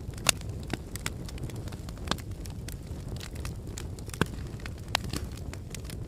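Lava flow crackling: irregular sharp cracks and snaps over a low, steady rumble.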